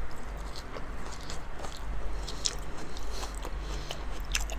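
A person chewing a large mouthful of raw salmon, with scattered small smacks and clicks of the mouth.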